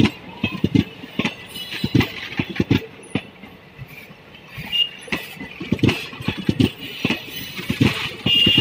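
Passenger train coaches rolling along the track, their wheels knocking irregularly over the rail joints with a steady hiss of running noise.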